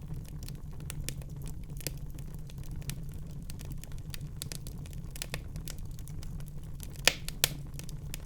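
Wood fire in a fireplace crackling: a steady low noise from the flames with many small pops and clicks, and two louder pops close together near the end.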